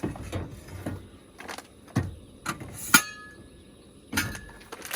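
Several separate knocks and thumps of objects being handled, with one sharp metallic clink about three seconds in that rings briefly.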